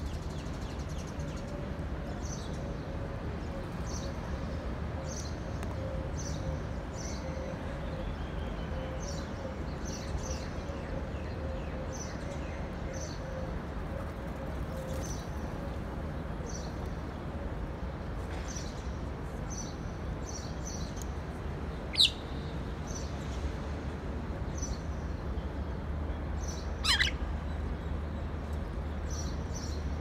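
Small birds chirping, many short high notes again and again, with two loud sharp calls that slide downward, one about two-thirds of the way through and another a few seconds later. A steady low rumble runs underneath.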